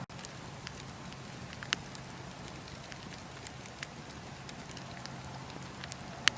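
Bonfire crackling: sharp pops come at irregular intervals over a steady hiss, the loudest pop near the end.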